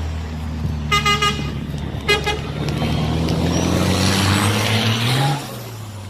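Race truck diesel engine running steadily, with two short horn toots about one and two seconds in. The engine note rises a little and then drops off about five seconds in.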